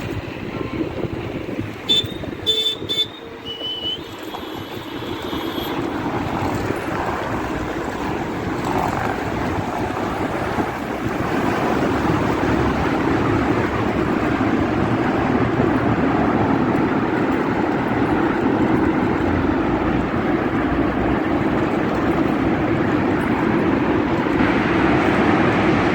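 Road traffic noise with a steady rush, likely wind on the microphone, growing louder over the first dozen seconds. A vehicle horn honks several short times about two to three seconds in.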